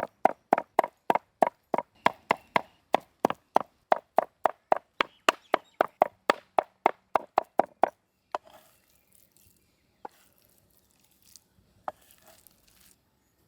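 Knife chopping boneless raw chicken into mince on a cutting board, steady sharp strokes about four a second that stop about eight seconds in. A few faint knocks follow.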